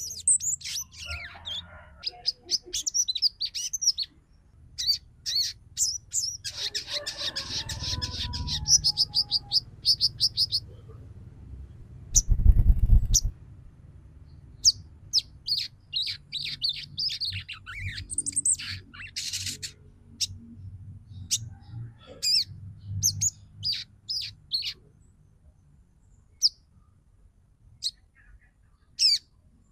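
Female sogon bird calling with short, high chirps and a fast chattering trill of repeated notes about six to ten seconds in, the calls used as a lure to rouse males. A low thump comes about twelve seconds in.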